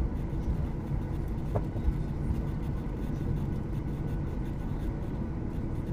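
Steady low rumble of a Boeing 737-800's engines and airflow heard from inside the passenger cabin.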